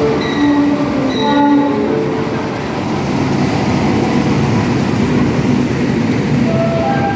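A train passing, a loud, steady rushing rumble of wheels on rails that builds about two seconds in and carries on to near the end.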